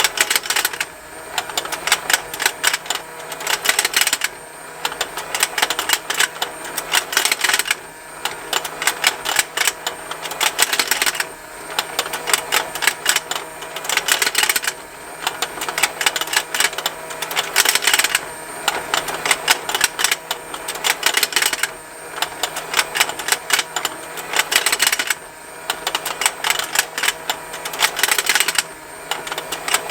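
Battery-powered plastic fishing-game toy running: its small motor turns the rotating pond with a continuous rapid plastic ticking, mixed with the snapping of the plastic fish. The ticking eases off briefly about every three and a half seconds as the rotation cycles.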